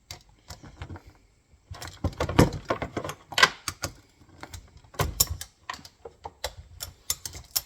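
Irregular metallic clicks and clinks of a wrench working the bolts on a steel MB-550 foothold trap, with louder knocks about two and a half and five seconds in.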